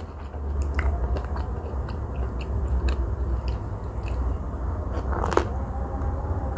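Close-miked mouth sounds of biting and chewing a Vietnamese fresh spring roll: many small wet crunchy clicks, with a sharper crunch about five seconds in. A steady low hum runs underneath.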